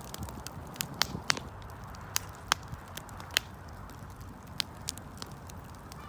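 Wood fire crackling, with sharp irregular pops and snaps, most of them in the first half, over a low steady rumble.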